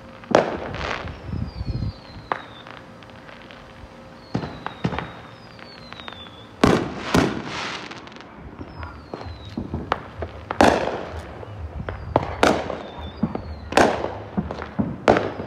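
Aerial fireworks going off: a series of sharp bangs and cracks at irregular intervals, each trailing off. They grow more frequent in the second half, and the loudest are two blasts close together about seven seconds in.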